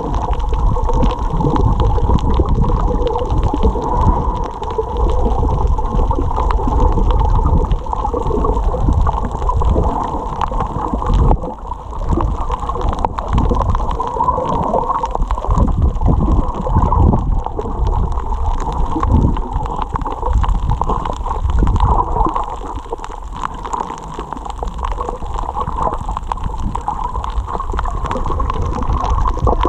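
Water sloshing and gurgling, muffled, with a steady low drone underneath.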